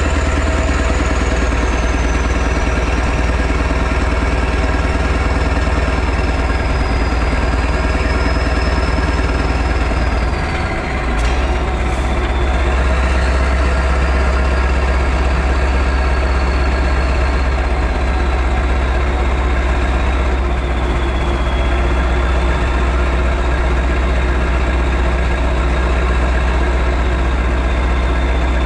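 Straight-piped Mack E9 V8 truck diesel engine idling steadily with a deep rumble, dipping briefly about eleven seconds in, with a faint high whine that slowly falls in pitch.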